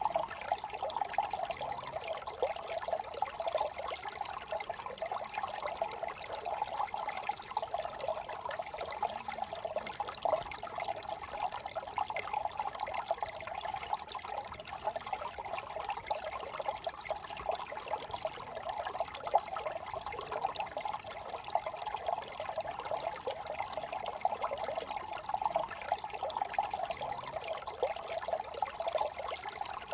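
Small brook trickling and babbling steadily over stones, a dense continuous patter of small splashes.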